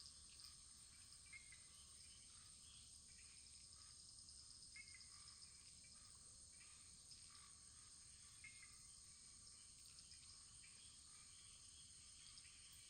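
Faint wood fire burning gently: a steady soft hiss with many small, scattered crackles and pops.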